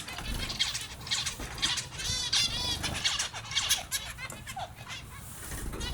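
Finches chirping and calling: many short, high calls, with a quick run of repeated arched notes about two seconds in.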